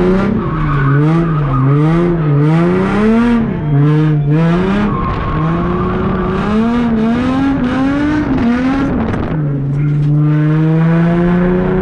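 Drift car's engine revving up and down in quick swells as the throttle is worked through a slide, with tire squeal over it. About nine seconds in, the revs drop and then climb steadily.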